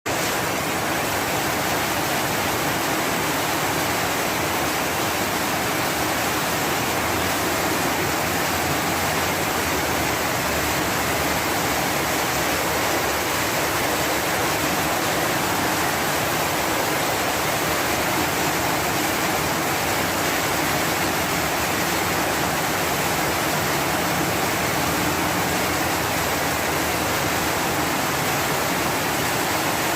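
Steady heavy rain: an even, unbroken hiss that does not change.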